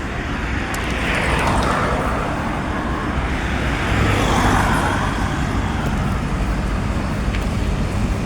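Road traffic noise: a steady low rumble, with vehicles swelling past about a second in and again around four seconds in.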